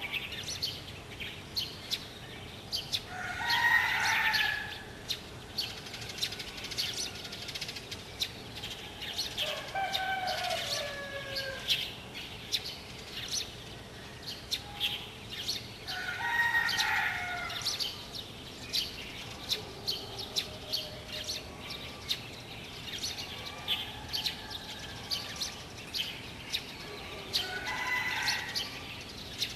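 Outdoor birdsong: many short, high chirps throughout, with four longer, louder calls of a second or two each, the loudest about four seconds in.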